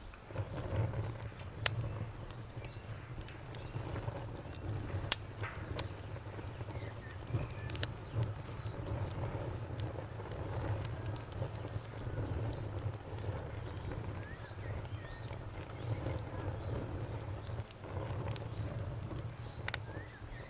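Campfire crackling with a few sharp pops, over frogs croaking low and continuously and crickets chirping in a steady high trill.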